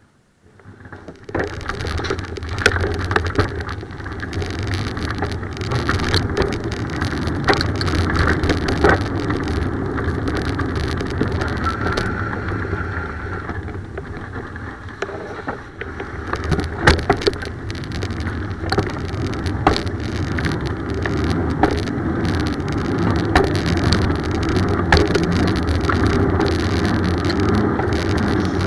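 Bicycle riding noise: wind buffeting the microphone and tyre rumble on the road, with scattered clicks and knocks from bumps and rattles. It starts about a second in, out of near silence.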